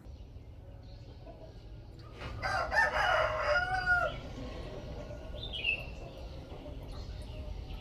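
A rooster crowing once, about two seconds in, over a low steady hum, with a short bird chirp a little later.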